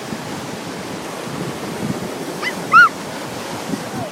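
Ocean waves washing on the beach, with wind buffeting the microphone. About two and a half seconds in come two short high-pitched cries, the second one louder.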